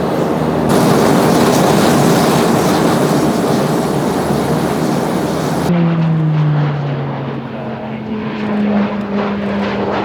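Aircraft engines at close range across two flybys: first a loud, wide rushing roar, then, after an abrupt change about six seconds in, a propeller aircraft's droning tone that slides down in pitch and then climbs again.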